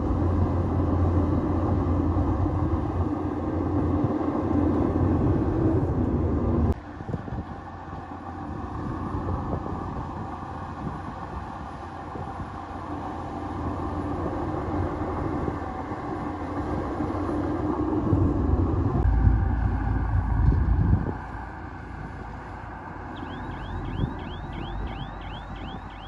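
Bulldozer's diesel engine running under work. The heavy rumble drops suddenly about a quarter of the way in, builds back up, and surges loud and deep about three-quarters of the way through. Near the end comes a fast run of short high chirps, about four a second.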